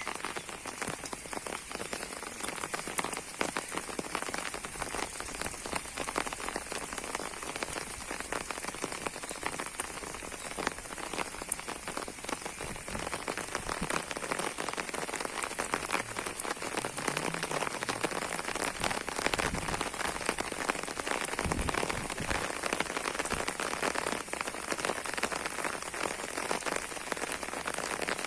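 Heavy rain falling steadily, a dense patter of countless drops hitting the ground and surfaces.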